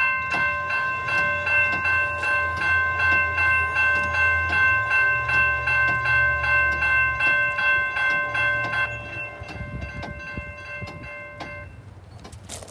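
Railroad crossing signal bells ringing with rapid, evenly repeated strikes. The striking stops about nine seconds in and the ringing dies away over the next few seconds.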